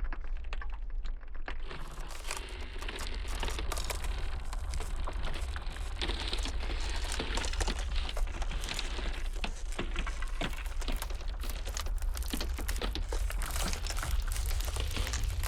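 Ice crackling and popping: many small, irregular sharp cracks over a steady low rumble, the crackling growing denser about two seconds in.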